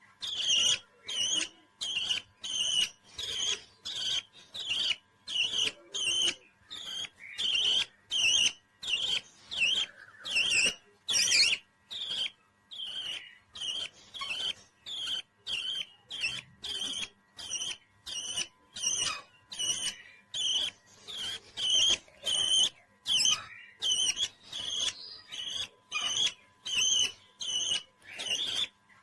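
Parrot chirping in short, evenly spaced high calls, about two a second.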